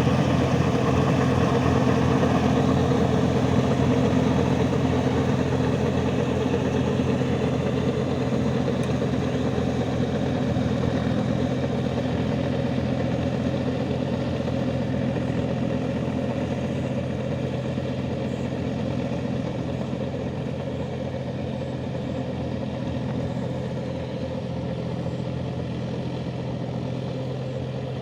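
John Deere 5050D tractor's three-cylinder diesel engine running steadily at an even speed, gradually getting quieter.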